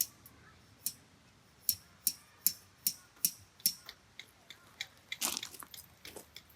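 A series of sharp, irregular clicks and knocks, about two or three a second, with a longer crunching scrape about five seconds in.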